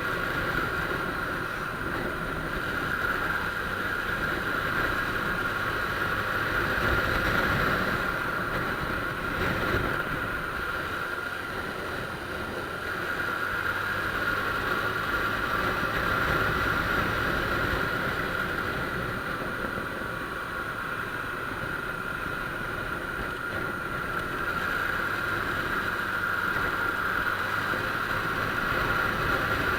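Honda Click scooter on the move: a steady engine and drive hum under a rush of wind noise, gently swelling and easing with no sharp events.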